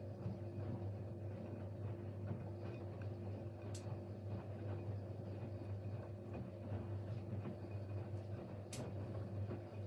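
Siemens Siwamat Plus 574 washing machine in its main wash, its drum motor running with a steady low hum and two sharp clicks about four and nine seconds in.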